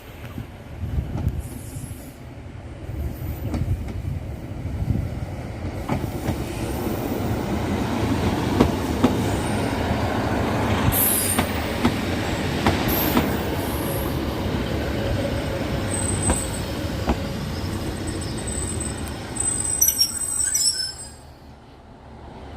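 Train running past on the rails: a rumble that builds from about six seconds in, with scattered clicks of wheels over rail joints and brief high-pitched wheel squeals near the end. The sound drops away abruptly shortly before the end.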